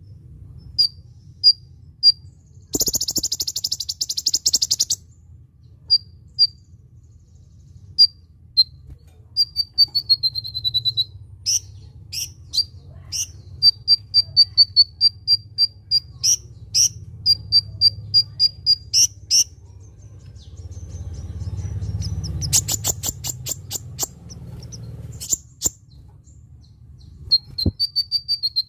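Kolibri ninja, a small sunbird, singing: sharp high chips, a short falling trill, fast runs of repeated chips, and two dense buzzy rattling phrases, over a low steady hum.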